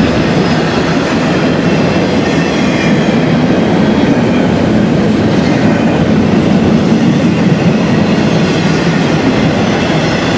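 Double-stack intermodal freight train rolling past close by: the steel wheels of its container well cars run on the rails with a steady, loud noise that does not let up.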